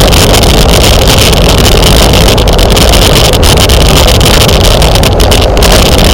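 Wind buffeting a bike-mounted camera's microphone while riding at race speed: a constant, very loud rush with no let-up.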